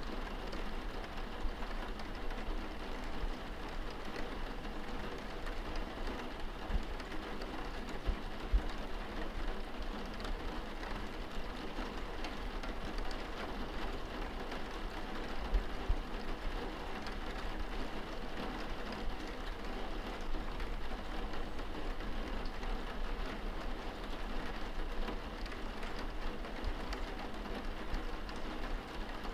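Steady rain on window glass heard from indoors: an even patter of drops with a few louder single taps and a constant low rumble underneath.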